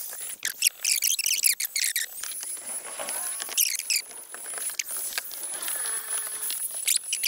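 Small bird chirping in several short runs of quick, high, falling notes, over a faint steady high-pitched whine.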